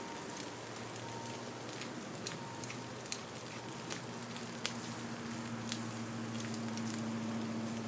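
A steady hiss with scattered sharp crackles, joined by a low steady hum that grows stronger about four seconds in.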